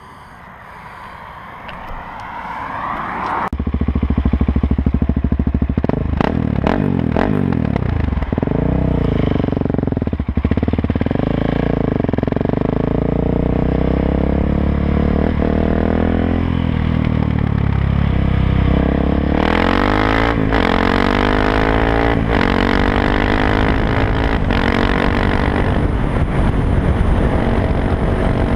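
KTM 690 SMC R single-cylinder engine through an Arrow exhaust with the dB killer removed. It grows louder over the first few seconds, then runs loud with its pitch rising and falling as it is revved and shifted.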